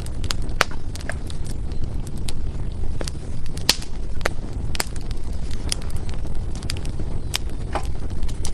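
Wood fire burning in a fireplace: irregular sharp crackles and pops, a dozen or more, over a steady low rumble.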